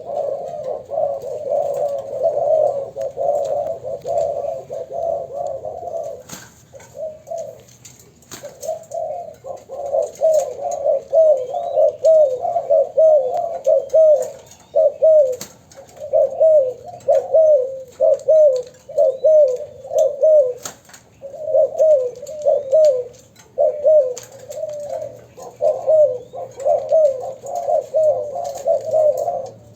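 Young spotted doves cooing almost without pause, a fast run of short repeated coo notes, with a short break about six to eight seconds in.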